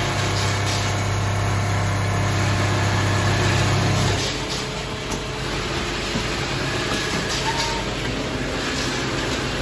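Automatic sleeping-bag sewing machine running, with a steady low motor hum that cuts off about four seconds in, leaving an even machine noise.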